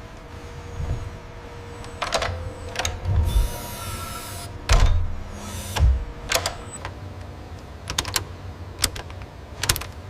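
Machinery clicking and clunking at irregular intervals: sharp clicks mixed with low thumps, and a short hiss in the middle.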